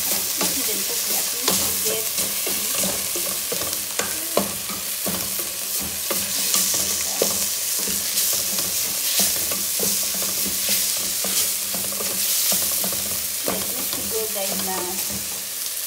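Sliced onions and coriander leaves frying in oil in a metal pot, sizzling steadily, while a spatula stirs them, scraping and knocking against the pot many times.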